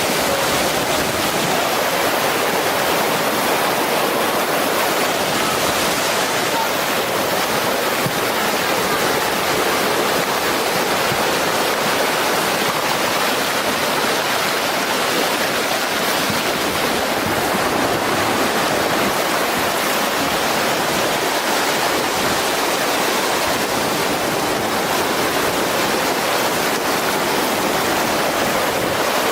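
Rushing floodwater, a steady unbroken rush of fast-moving water that keeps an even loudness throughout.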